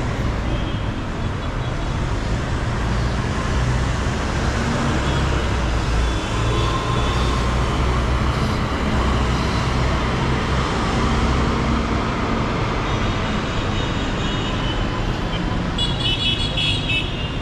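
Busy city street traffic: car, bus and motorbike engines running and tyre noise in a steady low rumble. A short high-pitched horn beep sounds near the end.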